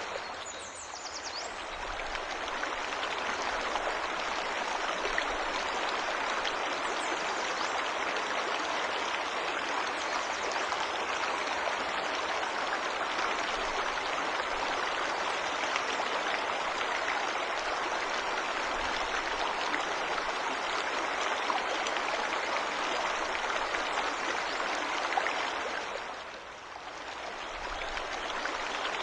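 Forest waterfall rushing steadily, an even noise of falling and running water. The rushing dips briefly about a second in and again near the end. A few faint high bird chirps come near the start.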